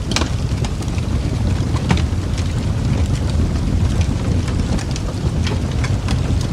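Wood fire crackling in a fireplace: a steady low roar of flames with scattered sharp pops and snaps, the sharpest just after the start.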